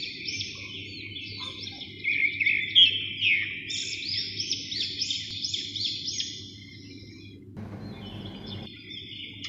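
Small birds chirping in a busy series of quick, high, falling notes over a faint steady low hum. The chirping thins out about two-thirds of the way through.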